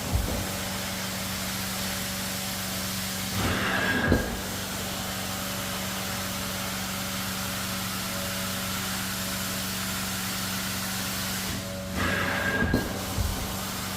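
Carpet-cleaning extractor running steadily with a hiss and a low hum, surging louder twice, about eight seconds apart, with a brief whistle as the cleaning wand is worked over the carpet.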